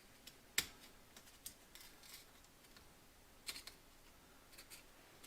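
Scattered light clicks and taps of a small hand tool against the metal parts of a hydraulic cylinder. The sharpest click comes just over half a second in, and a short cluster of clicks comes about three and a half seconds in.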